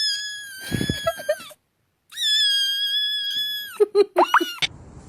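A cat giving two long, high, steady cries, separated by a short silent gap. The second cry drops in pitch at its end and is followed by a few short rising squeaks.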